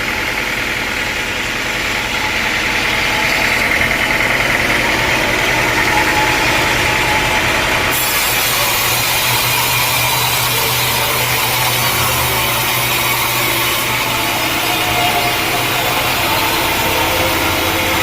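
Sawmill saw cutting through a teak log, steady mechanical running with a hum from the mill's drive; a brighter high hiss comes in about eight seconds in.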